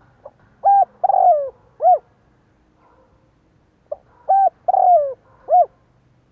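Spotted dove cooing: two phrases about two seconds apart. Each phrase is a brief lead note followed by three coos, the middle coo longer and falling away.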